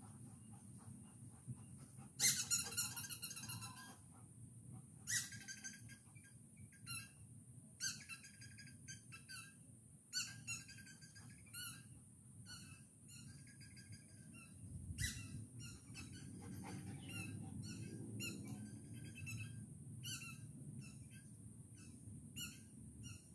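A bird calling in short, high chirping notes repeated every second or so, the loudest call about two seconds in, over a low background rumble.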